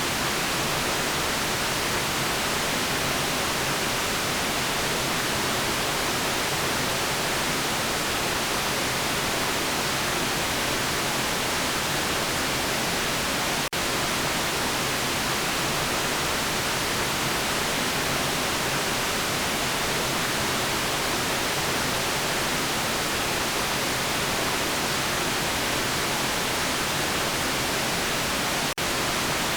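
Steady synthetic white noise, an even hiss strongest in the upper frequencies. The level dips for an instant twice, about fourteen seconds in and near the end.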